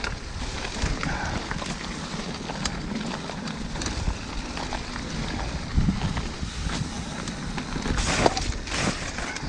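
Wind buffeting the microphone and tyres rolling over a dirt trail during an off-road bike ride, with rattles and knocks from bumps, the loudest about six and eight seconds in.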